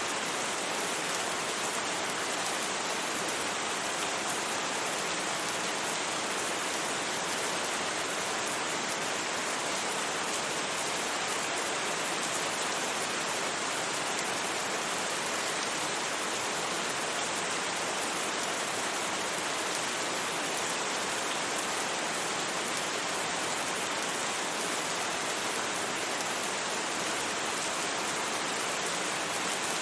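Steady rain falling: an even, unbroken hiss with no changes or separate impacts.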